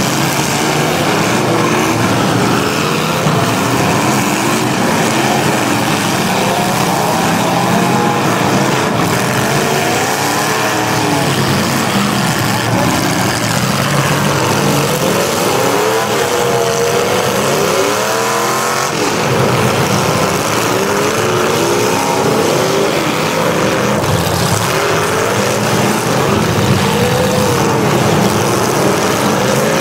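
Several demolition derby car engines revving at once, their pitches rising and falling over each other in a continuous loud din.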